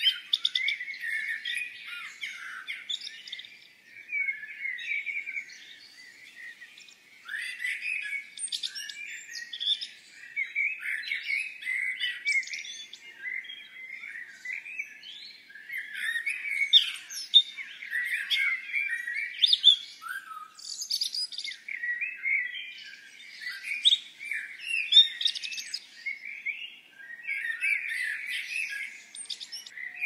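Songbirds chirping and twittering in quick, high, overlapping phrases that run on without a break.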